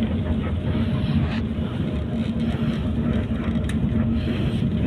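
Intercity bus running on the road, heard from inside the cabin: a steady engine hum under even road and tyre rumble.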